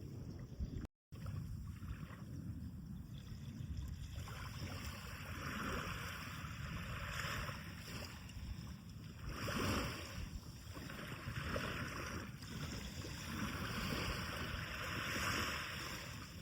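Sea of Japan surf breaking on a sandy beach, the hiss of each wave washing in swelling and fading several times over a steady low rumble. The audio drops out completely for a moment about a second in.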